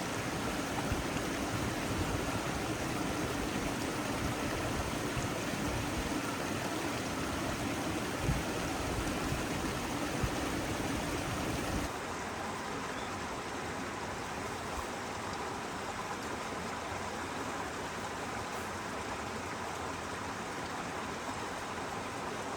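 Steady rushing outdoor noise with a few faint thumps; about halfway through it drops abruptly to a quieter, thinner rush.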